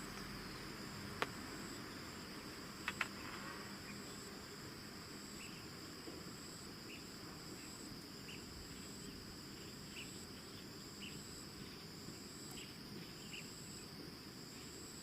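Insects chirping: a steady high trill with a second, higher chirp that pulses on and off. A few sharp clicks come about a second in and again about three seconds in.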